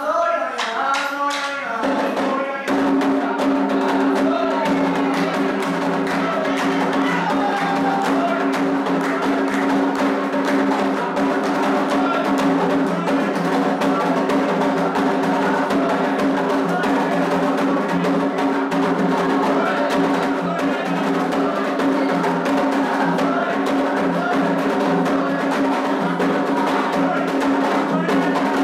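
Candomblé toque for Omolu: a short chanted phrase, then hand drums and percussion come in loudly about two and a half seconds in and play a fast, continuous rhythm, with voices singing over it.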